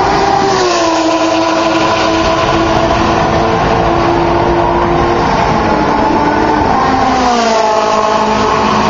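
Sports-car race cars passing at full throttle on a long straight. Loud engine sound, with the engine pitch dropping as one car passes about a second in and another around seven seconds in.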